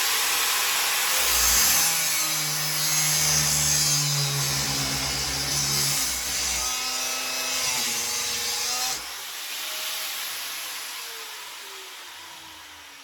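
Electric power tool cutting under load, a dense grinding noise, then switched off about nine seconds in and spinning down with a falling whine.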